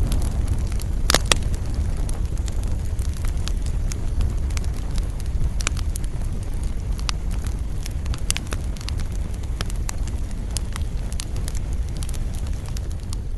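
Fire in a fireplace crackling and popping over a steady low rumble, with the sharpest pair of pops about a second in.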